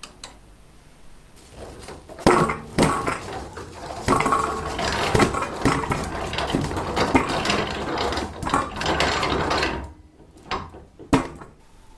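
Old restored potato peeler machine running with a busy metallic clatter and rattle, starting about two seconds in and stopping about ten seconds in, then two or three separate knocks.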